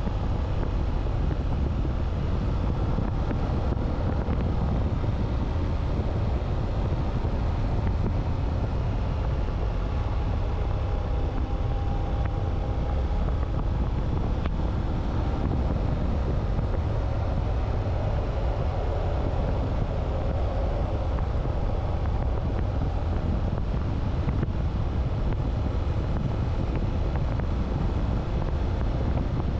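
Motorcycle on the move: steady wind rumble across the microphone with a faint engine note that drifts slightly in pitch.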